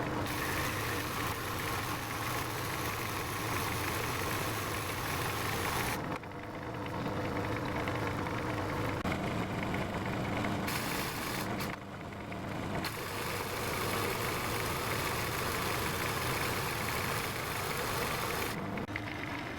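Metal-turning lathe running under power, cutting a screw thread on a leadscrew: a steady motor and gear-train hum with a hiss over it. The sound shifts abruptly a few times, about six seconds in, near twelve seconds and near the end.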